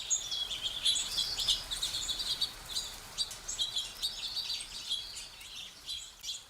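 Songbirds chirping and singing, a busy overlapping chorus of short, high calls that thins out a little toward the end.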